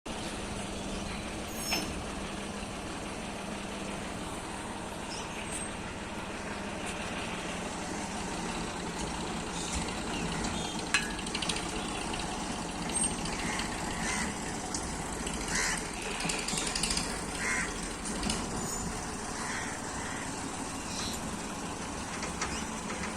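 Tractor engine running steadily as a tractor with a loaded trolley manoeuvres, with a low hum that fades after about seven seconds. Short high chirps and clicks come through over it, more often in the second half.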